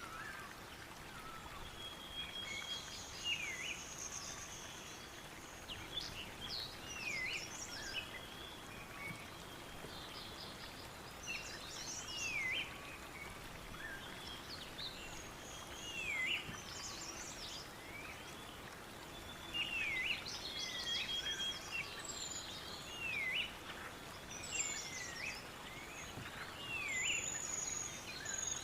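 Several wild birds calling and singing over a steady soft hiss of outdoor background. One bird repeats a short call that dips and rises in pitch about every three to four seconds, and other birds add higher chirps and trills.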